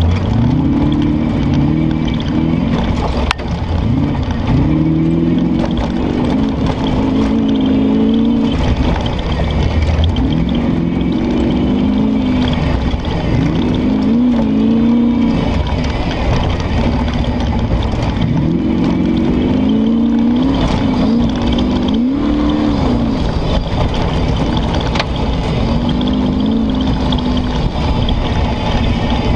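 Competition safari off-road car's engine heard from inside the cockpit, revving up and dropping back again and again as it is driven hard over rough ground. A sharp knock comes about three seconds in.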